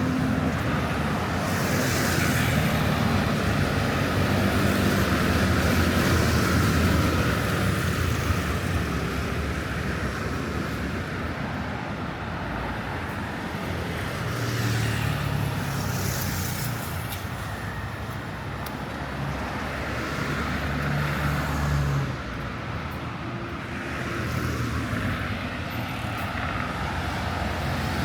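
Road traffic on a city street: a steady hum of car engines and tyre noise, with vehicles passing by now and then.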